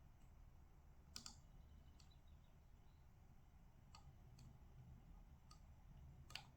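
About half a dozen faint, scattered clicks from desk work at a computer, the loudest near the end, over a low steady hum.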